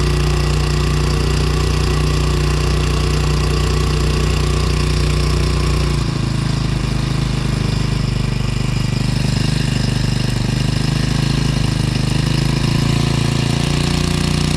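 Brand-new Hangkai 4 hp four-stroke single-cylinder outboard motor running at low speed during its break-in, barely turning the propeller. The engine's pitch shifts about six seconds in and again near the end.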